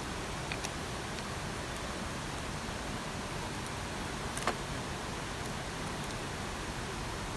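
Steady rain falling, an even hiss with scattered drops ticking, and one sharper tap about four and a half seconds in.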